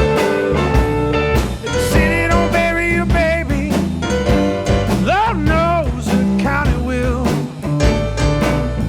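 A blues band playing an instrumental passage, with drums, bass and keyboards under a steady beat. About five seconds in, a lead line slides and bends in pitch.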